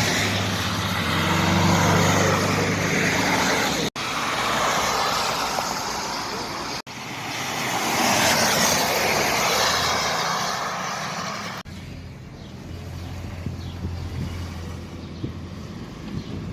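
Cars passing on a wet road: a spray-like hiss from the tyres on water over a low engine hum, swelling as each car goes by. Several short clips are cut together, and the sound changes abruptly at each cut.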